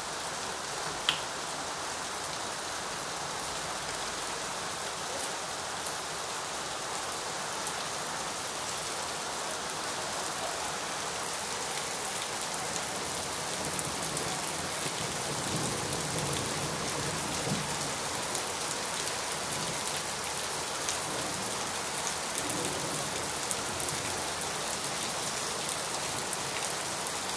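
Steady rain falling, with many small drops ticking on a surface. A single sharp click stands out about a second in.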